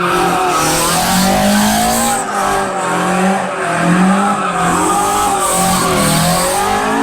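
A car engine revving hard, its pitch rising and falling again and again about once a second, over a steady tyre-squealing hiss, as a car drifts.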